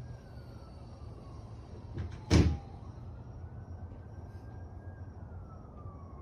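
A door slamming shut once, a quick click and then a loud slam about two seconds in. Behind it a distant siren slowly rises and falls over a steady low rumble.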